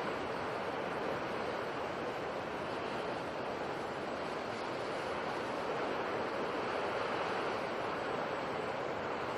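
Sea waves washing in a steady, continuous rush that swells and eases gently.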